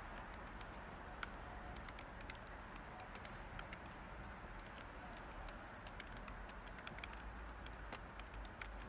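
Light typing on a computer keyboard, irregular soft key clicks, over a steady background white noise.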